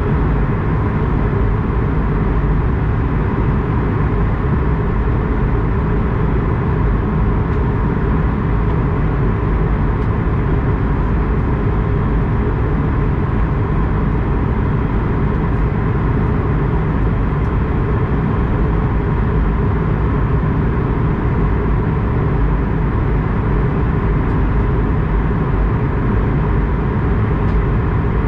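Steady, loud rumble of an Airbus A220-100 heard from inside its cabin: engine and airframe noise running at an unchanging level.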